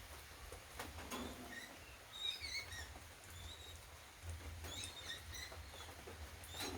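Birds chirping in short, high calls scattered throughout, over a faint steady low rumble, with a few sharp taps.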